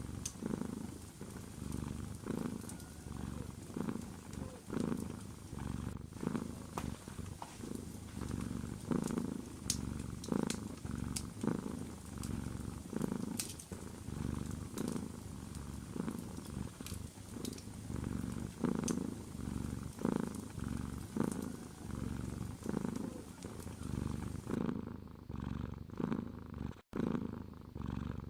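Domestic cat purring close up, a low rumble that swells and fades in slow waves about once a second, with scattered sharp crackles from a wood fire. The sound cuts out for an instant near the end.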